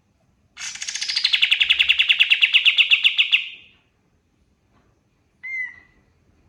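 Kapas tembak (a triller) singing: a loud rapid trill of about ten notes a second lasting about three seconds, dropping in pitch at first and then steady. Near the end comes one short call.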